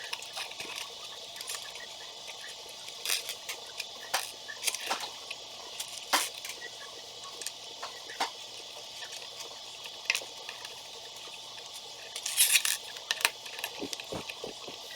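Small construction-toy pieces clicking and rattling as a model set is built by hand: irregular sharp clicks every second or so, with a louder cluster of rattling near the end, over a steady hiss.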